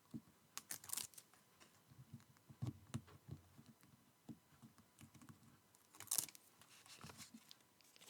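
Faint scattered clicks and rustles of double-sided tape and card being handled, the clearest about a second in and again around six seconds in.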